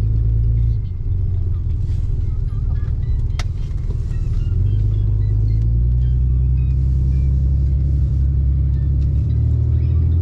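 Motor vehicle engine running with a steady low rumble, its pitch rising slowly near the end, and a single sharp click about a third of the way in.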